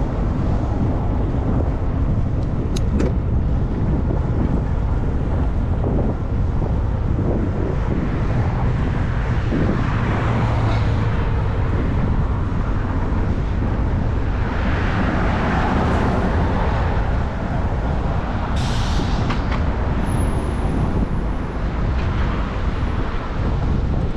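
Wind noise on the microphone of a moving bicycle, over street traffic. Vehicles swell past around the middle, and there is a short hiss about eighteen seconds in.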